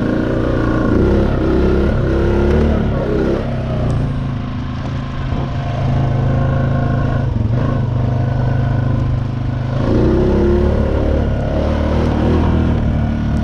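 Honda Rancher ATV's single-cylinder engine running under way, easing off about four seconds in and picking up again near ten seconds.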